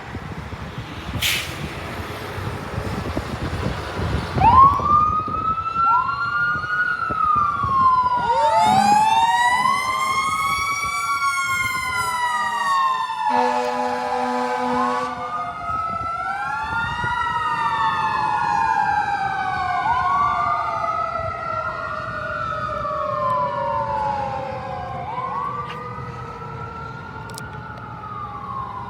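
Fire truck siren wailing, its pitch rising quickly and then falling slowly in repeated, overlapping cycles. It starts a few seconds in over the truck's low rumble. Partway through, a few short horn blasts sound over it, and the siren slowly fades near the end.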